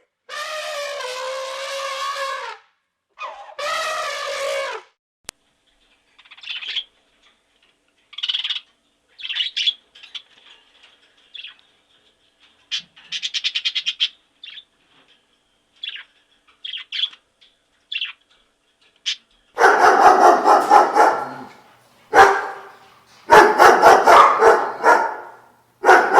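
A sequence of different recorded animal calls: two long, high calls in the first five seconds, then a string of short, high chirps and squeaks, then loud, harsh, repeated calls from about twenty seconds on.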